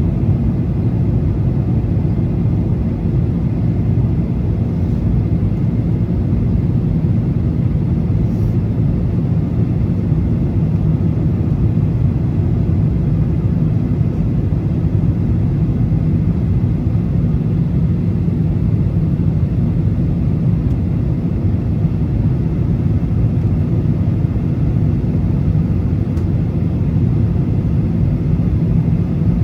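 Steady low rumble of a Boeing 737's engines and airflow heard from inside the passenger cabin.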